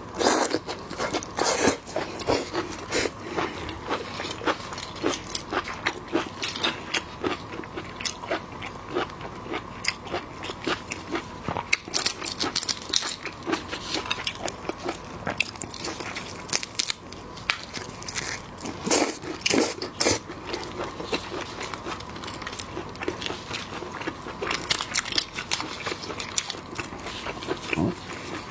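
A person eating seafood close to the microphone: irregular bites, crunches and wet chewing clicks, with no let-up.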